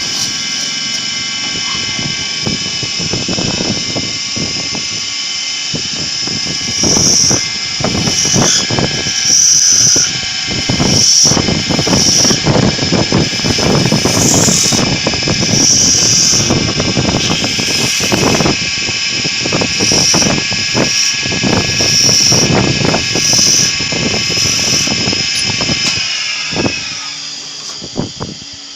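Woodworking lathe running with a steady high whine while the cutter scrapes and chatters against the spinning wood in repeated passes. Near the end the whine slides down in pitch and fades as the machine spins down.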